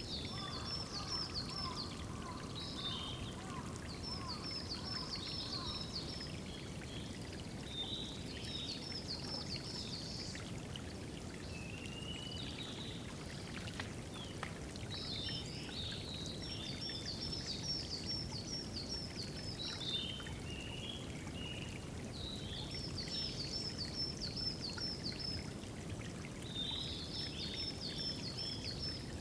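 Narcissus flycatcher singing, a high phrase of quick repeated notes that comes again about every four to five seconds, over the steady trickle of running water. In the first few seconds, a lower series of notes from another bird runs underneath.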